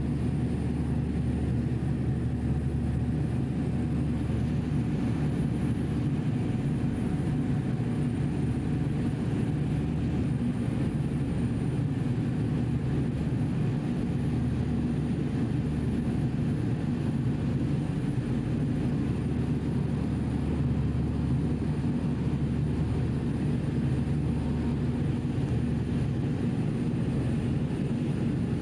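Steady low drone of a passenger ferry's engines, heard on board while under way.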